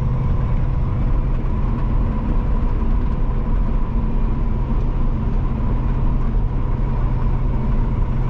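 Peterbilt 567 semi truck heard from inside the cab while cruising on the highway: a steady, even engine drone with road noise and a faint constant whine.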